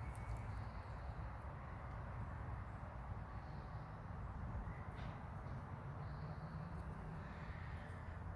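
A few faint bird calls over a steady low background rumble.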